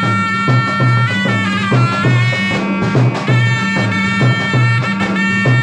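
Traditional folk music: a shrill reed pipe plays a held, ornamented melody over a regular drum beat.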